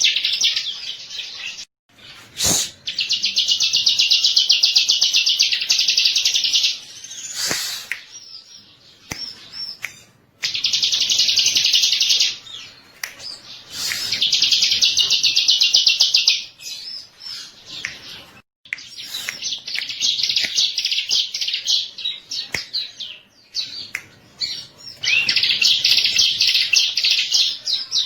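Bar-winged prinia (ciblek) singing: fast, buzzy, high trills in bouts of two to four seconds with short breaks between them, and a few abrupt drops to silence.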